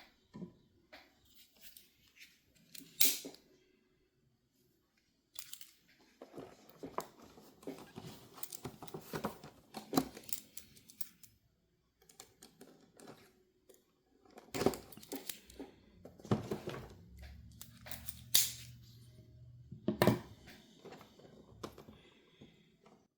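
Action figure packaging being opened by hand: cardboard and plastic crinkling, scraping and tearing, with sharp snaps and clicks in uneven bursts and a short pause a few seconds in.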